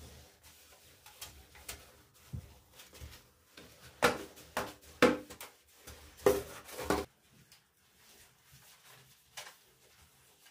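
A run of knocks and clatters of hard objects being handled and set down, several in quick succession about four to seven seconds in, with a few fainter taps around them.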